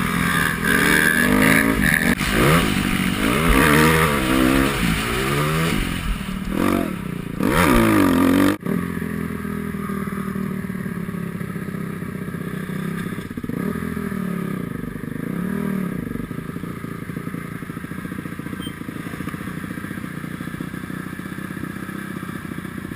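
Dirt bike engine revving, its pitch rising and falling again and again; about eight and a half seconds in it cuts off abruptly and gives way to a steadier, quieter running with a few small rises.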